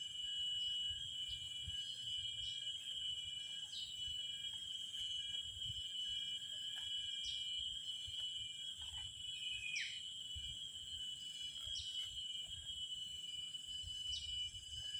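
Steady high-pitched insect chorus, with short chirps every second or two and some low rumbling.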